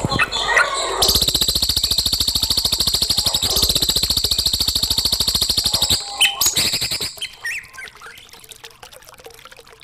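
Songbird song from a bird-song training recording: a long, rapid, even trill that runs for about five seconds from about a second in, followed by shorter varied chirps and whistles that grow quieter near the end.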